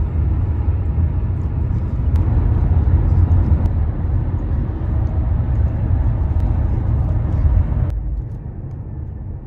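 Steady low rumble of road and engine noise inside a moving car, with a hiss over it that drops away sharply about eight seconds in.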